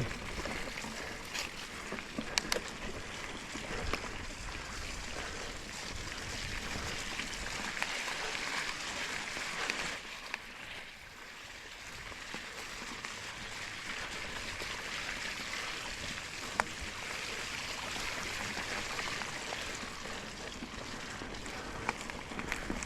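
Mountain bike rolling over a wet, rocky trail: a steady rushing noise from the tyres on soaked ground, with scattered sharp clicks and knocks. The noise drops briefly about ten seconds in, then picks up again.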